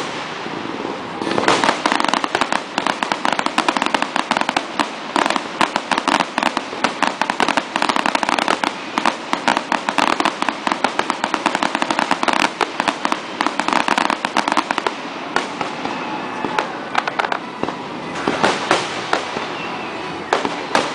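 Aerial fireworks display: a dense, rapid run of bangs and pops from bursting shells. It thins out about three-quarters of the way through, then picks up again near the end.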